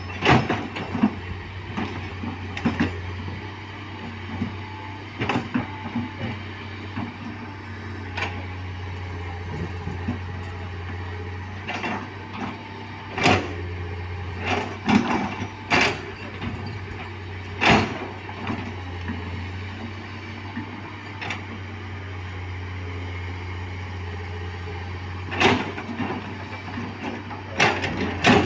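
A heavy diesel engine runs steadily with a low hum, and sharp metallic clanks and knocks come at irregular moments over it.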